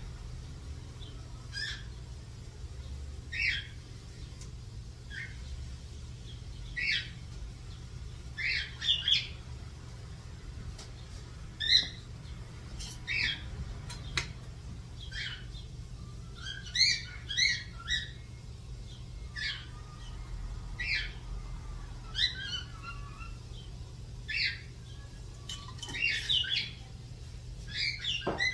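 A bird calling over and over: short high chirps and squawks every second or two, some of them quick trills, over a steady low hum.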